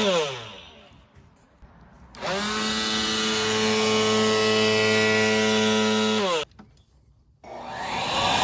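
A small electric blower motor hums steadily, then winds down in pitch as it is switched off. About two seconds in it starts again and runs steadily for about four seconds before winding down once more. Near the end a breathier, rushing blower starts up.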